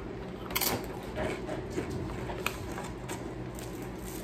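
Eating sounds: a burrito being chewed, with a few short crackles and clicks, the sharpest about half a second in.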